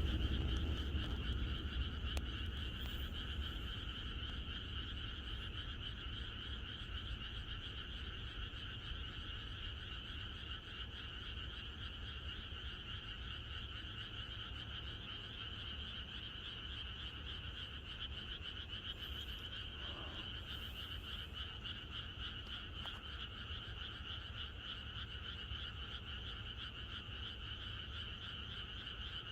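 A dense chorus of many frogs calling together, a steady pulsing din. A low rumble dies away over the first few seconds.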